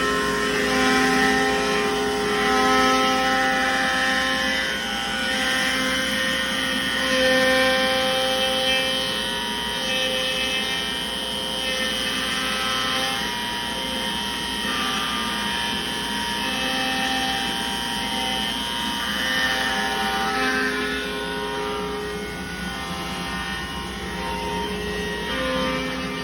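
CNC router cutting a 3/4-inch poplar board: a steady router whine and cutting noise, with motor tones that step up and down in pitch every second or two as the sled changes speed and direction.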